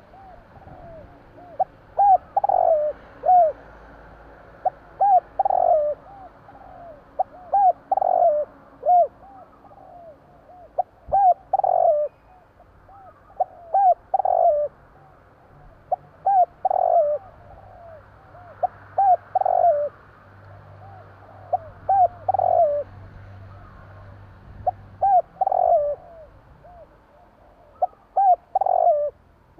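Spotted dove cooing: a phrase of short, soft coos building to louder notes, repeated about every three seconds.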